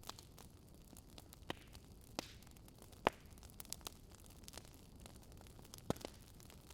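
Wood fire crackling in a fireplace: a low, steady hiss with scattered sharp pops, the loudest about three seconds in.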